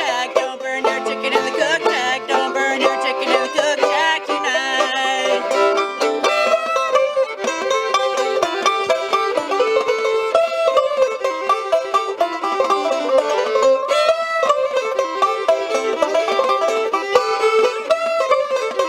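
Live acoustic string music in a bluegrass-country style, with plucked strings carrying a steady rhythm.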